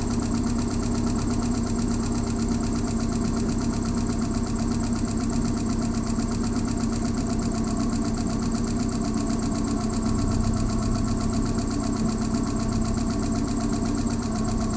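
2009 Subaru Outback's 2.5-litre flat-four engine running steadily at idle, heard from the engine bay, without a misfire.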